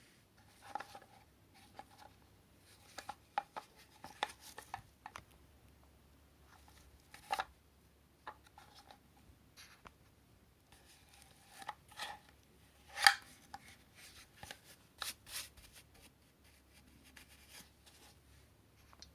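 Scattered clicks and knocks of hard plastic parts being handled, in two loose clusters with one sharp loudest knock about 13 seconds in; the vacuum motor is not running.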